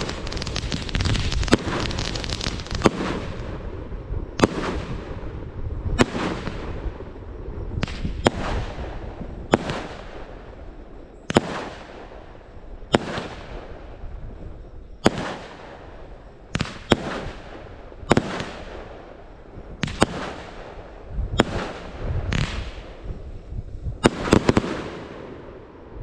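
Fireworks going off: a dense crackling barrage for the first few seconds, then a steady run of sharp bangs about every one and a half to two seconds, each trailing off in a fading rumble.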